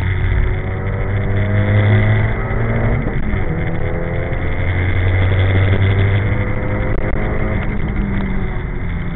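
Nissan Silvia S14's engine heard from inside the cabin, accelerating hard. The revs climb, drop at a gear change about three seconds in, climb again, and fall away near the end.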